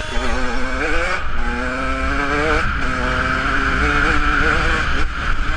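Two-stroke dirt bike engine being ridden, its note rising and dropping several times as the throttle is worked.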